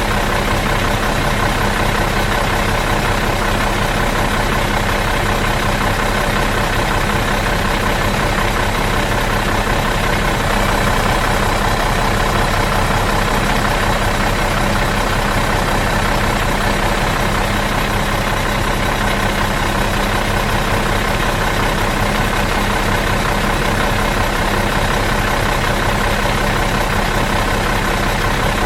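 Bus engine idling in neutral, a steady, even running with a fine regular pulsing and no change in speed.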